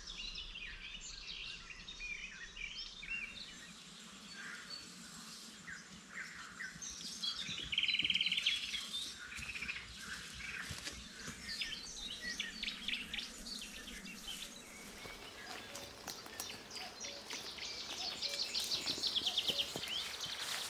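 Several songbirds singing, with many short chirps and a rapid trill about eight seconds in and another near the end.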